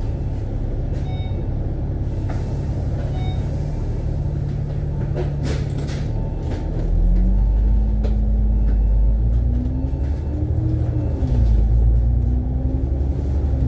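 Diesel engine and road rumble heard from inside a KMB Alexander Dennis Enviro500 MMC double-decker bus. About six seconds in, the engine note starts to rise and the rumble grows louder as the bus accelerates. The note dips briefly near the end, then climbs again.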